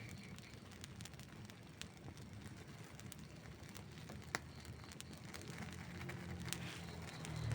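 Outdoor wood campfire crackling, with scattered sharp pops, the loudest about four seconds in. A low hum builds in over the last two seconds.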